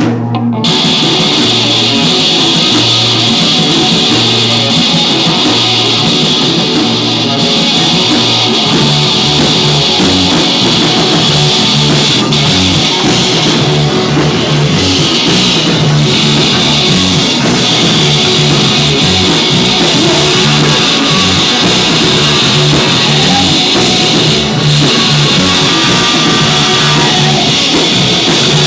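Loud live rock band playing: distorted electric guitars over bass and a drum kit, with no let-up in the music.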